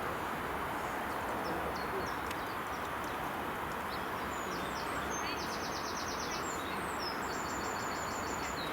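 Small birds chirping with short high calls over a steady rushing background, with two fast trills of rapidly repeated notes in the second half.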